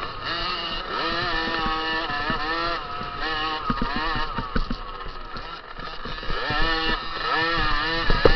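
50cc two-stroke motocross bike engine revving hard, its pitch climbing and dropping again and again as the throttle is worked and gears change, with a few sharp knocks near the end.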